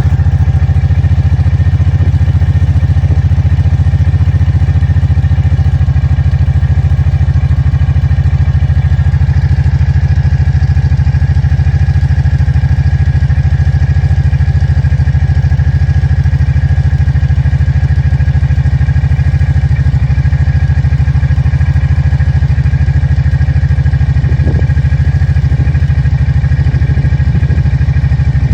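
Fuel-injected 749cc four-stroke V-twin engine of a Kawasaki Brute Force 750 ATV idling steadily, with a low, even beat and no revving.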